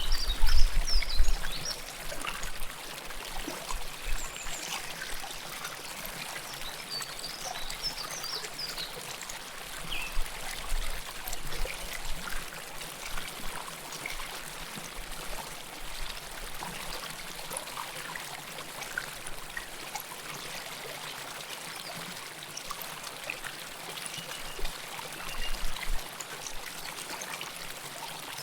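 River water flowing close to the microphone: a steady rush and babble, with a few brief louder surges. A low rumble in the first second or two fades out.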